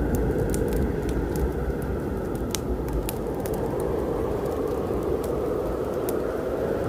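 Wood fire crackling, with scattered sharp pops and snaps, one louder about two and a half seconds in. Under it runs a steady low rumble of a thunderstorm.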